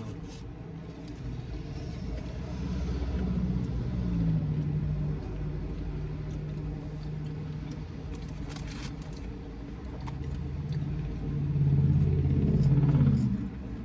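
A car engine running at low revs, its low hum drifting slightly in pitch. It gets louder for a couple of seconds near the end, then drops off sharply.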